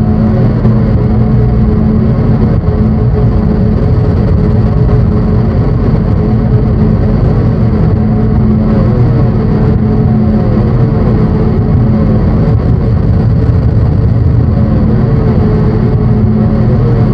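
Loud, dense drone from analogue drone synthesizers: steady low tones under a thick rumbling noise, with a short falling whine that repeats every second or so over the second half.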